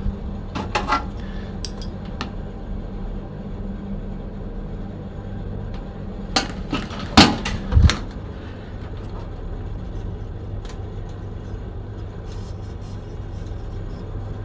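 Steady low hum of a spare compressor running as a vacuum pump, drawing the remaining air out of the refrigerator's pipes. Metal clinks and knocks come a few times about a second in, and louder ones around the middle.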